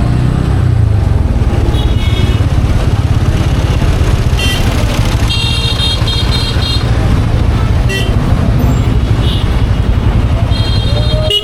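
Pulsar N160 motorcycle's single-cylinder engine running steadily at highway speed, with heavy wind and road noise. A vehicle horn sounds three times: briefly about two seconds in, longer in the middle, and again near the end.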